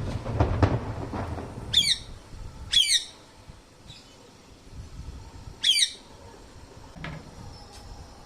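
A parrot gives three short, harsh squawks, about two seconds in, about three seconds in and near six seconds. In the first second or so there is low rustling and knocking.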